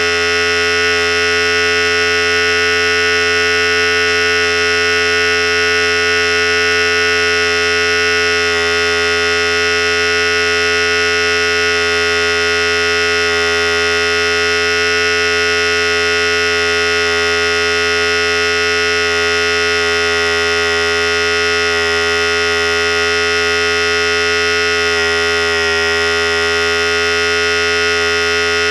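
Philips Series 5000 hair clippers running continuously with a steady, even buzz.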